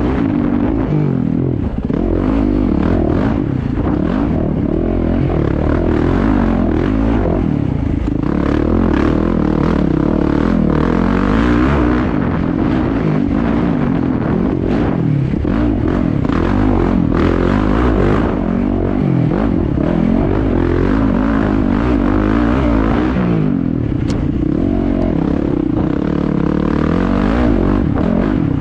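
Yamaha YZ450FX dirt bike's single-cylinder four-stroke engine being ridden hard, its pitch rising and falling continually with the throttle through the ruts and whoops, with the rattle and clatter of the bike over the terrain.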